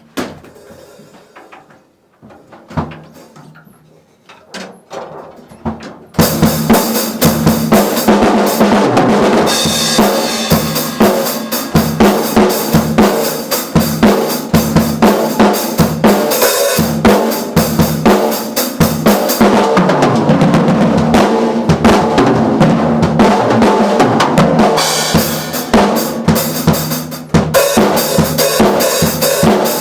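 Mapex drum kit: a few light taps, then about six seconds in, loud continuous playing across the kit with cymbals washing over the drum strokes.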